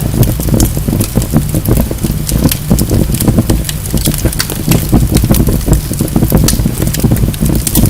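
Wood fire burning in a fireplace: many sharp, irregular crackles and pops from the logs over a steady low rumble of the flames.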